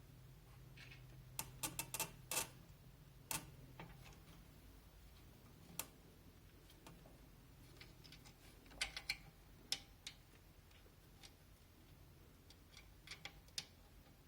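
Small sharp clicks and taps of screws and a case fan being handled and fitted into a computer case's frame. They come in short clusters with pauses between, over a faint steady low hum.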